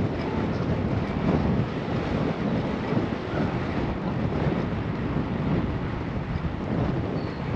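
Wind rushing over a moving bicycle rider's GoPro microphone: a steady, gusting low rumble.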